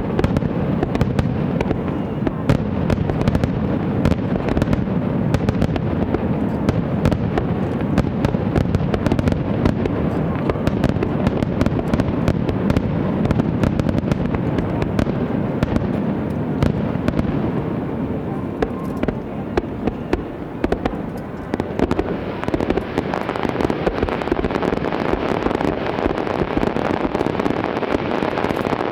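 Fireworks display in a continuous barrage: a steady rumble of shell bursts packed with dense crackling pops. It eases a little past the middle, then builds again.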